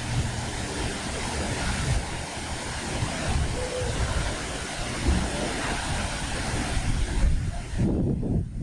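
Wind buffeting an action camera's microphone with irregular low rumbles, over a steady rushing hiss. The hiss thins out sharply near the end.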